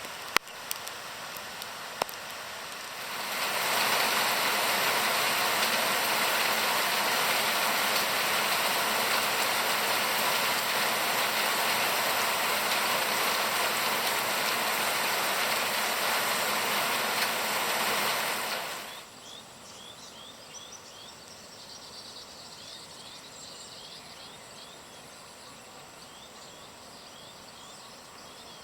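Heavy rain pouring down, a loud even hiss that starts suddenly a few seconds in and stops abruptly after about fifteen seconds. Afterwards only a faint hiss remains, with rows of small insect chirps.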